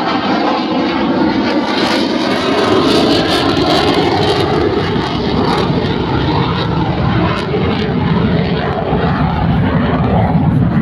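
Jet noise from a JAS 39 Gripen fighter's single turbofan engine as the aircraft flies during a display. It is a loud, continuous rush that deepens toward the end.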